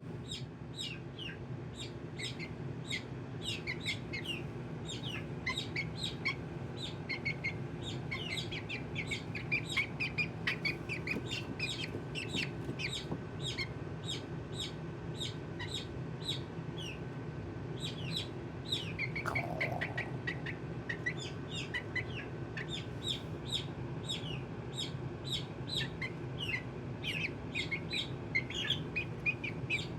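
Baby chick peeping: short, high chirps repeating rapidly throughout, over a steady low hum.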